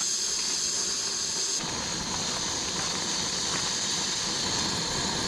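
Food sizzling as it cooks in a pan: a steady hiss that grows fuller about a second and a half in.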